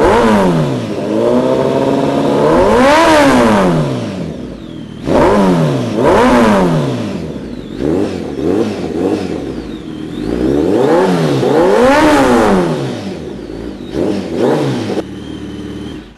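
Kawasaki ZX-10R Ninja's inline-four engine, breathing through a Speed Pro MotoGP aftermarket exhaust, revved again and again: the pitch climbs and falls back about five times, with a few shorter blips in between.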